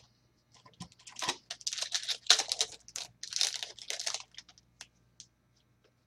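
Foil trading-card pack wrapper being torn open and crinkled in a run of bursts lasting about three seconds, followed by a few faint ticks.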